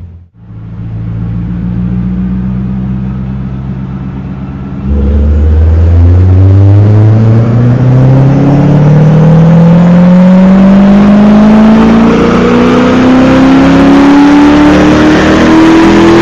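Chevrolet Corvette C6 Z06's 7.0-litre LS7 V8 breathing through a B&B Bullet exhaust during a wide-open-throttle chassis-dyno pull. The engine runs low and steady for a few seconds, then about five seconds in it gets sharply louder and pulls hard, its pitch rising steadily as the revs climb.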